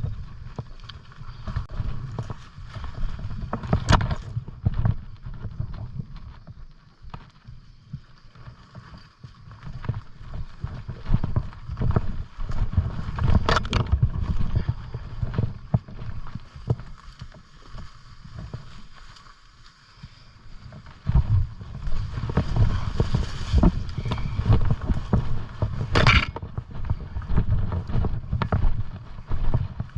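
Walking and handling noise on a body-worn microphone: irregular low thumps and rustling, with a few sharp clicks about 4, 13 and 26 seconds in.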